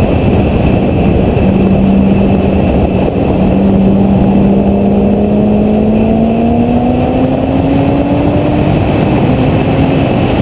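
Chevrolet Corvette ZR1's supercharged V8 pulling hard on track, its pitch climbing slowly through most of the stretch before dropping back near the end. Heavy wind noise on the hood-mounted camera's microphone.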